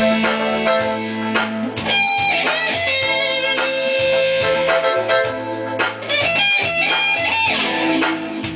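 Guitar music: plucked guitar notes playing a melody over a moving bass line, without a pause.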